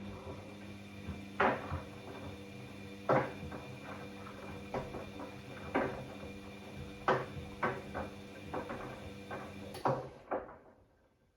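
Bosch Classixx 6 washing machine's drum motor turning the drum during the wash's start-and-sensing stage: a steady motor hum that starts suddenly, with irregular knocks and clunks as the drum turns. The hum winds down and stops about ten seconds in, the pause between tumbling turns.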